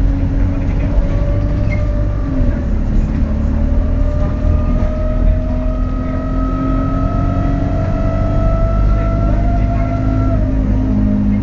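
Alexander Dennis Enviro200 bus's diesel engine running under way with an odd turbo whistle that climbs slowly in pitch and drops away about ten seconds in, over a steady low engine drone.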